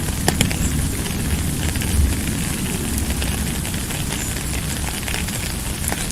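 Steady rain, a dense hiss with fine crackling drops, over a continuous low rumble.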